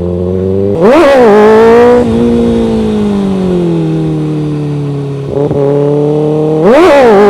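Kawasaki ZX-6R 636 sport bike's inline-four engine revved sharply and the clutch let out, once about a second in and again near the end, for clutch-up wheelie attempts. In between, the engine pulls steadily under throttle.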